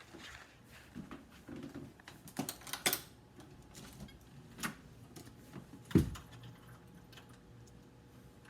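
Scattered light clicks and knocks at an uneven pace, with one louder, heavier thump about six seconds in.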